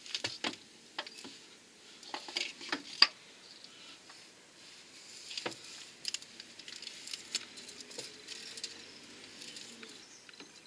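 Scattered light metallic clicks and taps as a car's right-hand driveshaft is handled and fitted back into the gearbox, the sharpest about three seconds in.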